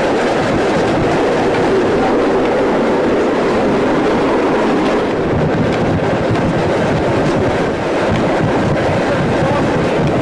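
Steam-hauled passenger train running, heard from an open carriage window: a steady, loud rumble and clatter of the wheels on the rails.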